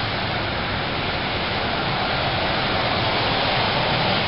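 Steady hiss of falling rain, a continuous even wash of noise that grows slightly louder toward the end.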